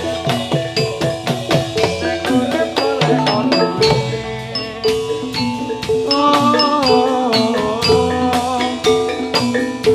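Javanese gamelan music: bronze metallophones strike a fast stream of notes over drum beats, and a wavering melody line joins about six seconds in.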